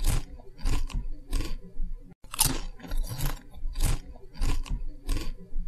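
Close-up chewing of crisp fried food: a run of short, irregular crunches, roughly two a second.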